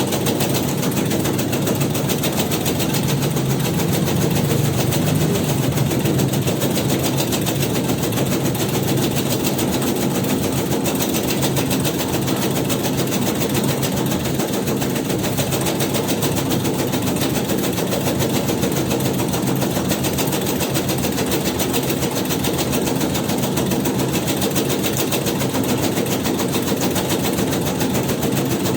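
Motorised tobacco-shredding machine running steadily, with a rapid, even chatter from its mechanism.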